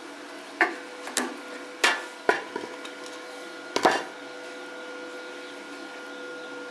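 About five sharp knocks of work with tools in a workshop, spread over the first four seconds, over a steady machine hum.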